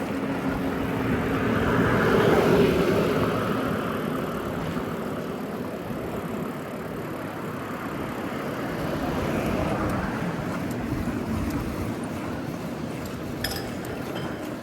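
Road traffic passing on a city street: a vehicle swells up loudest about two seconds in and fades, with a second, softer swell later on.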